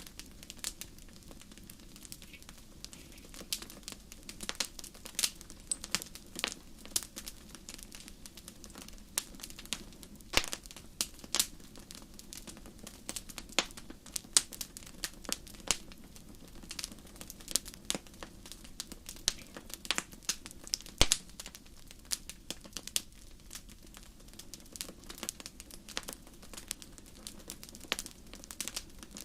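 Wood fire in a fireplace crackling: irregular sharp pops and snaps over a low, steady background.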